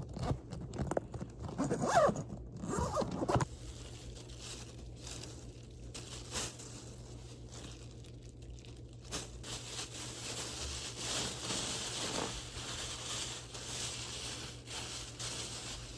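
A bag zipper pulled several times in quick strokes, with rustling and handling of packed items, in the first few seconds. After that, only faint rustling over a steady low hum.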